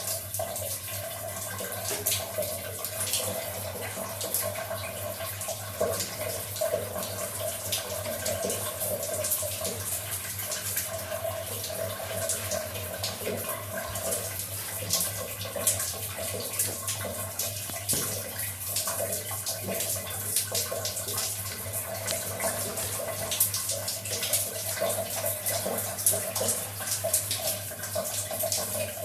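Water running steadily from a tap and splashing, as a pet parrot is bathed under it.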